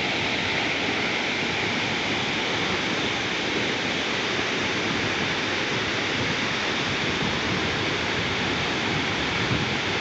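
Steady, unbroken rush of a large waterfall, falling water and spray making a constant hiss.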